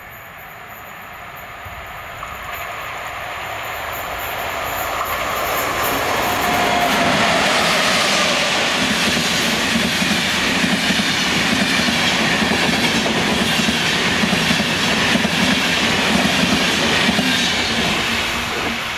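Passenger train hauled by an electric locomotive, approaching and passing close by: its wheel and running noise on the track builds over the first several seconds, stays loud and steady as the coaches go by, and falls away as the last coach passes near the end.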